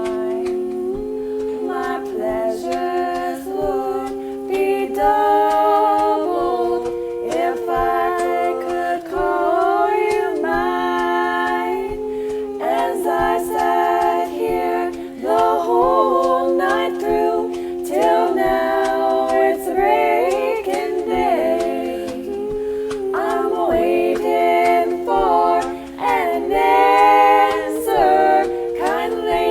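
Several voices singing a cappella in harmony, a low note held under a moving melody line.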